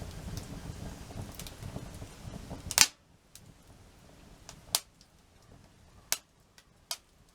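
Wood fire crackling and popping. A busy low crackle ends in one loud sharp pop about three seconds in, then the fire goes quieter with a few separate pops.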